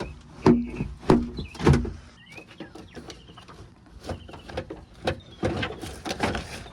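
Plastic car interior trim being handled and pulled loose: three sharp knocks about half a second apart, a few short squeaks, then rustling and scraping toward the end.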